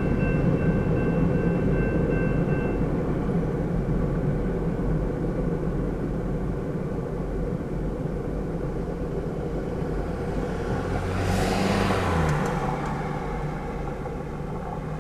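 Freight cars of a manifest train rolling past with a steady low rumble that slowly fades, with a thin steady squeal for the first few seconds. About eleven seconds in, a swell of noise rises and falls.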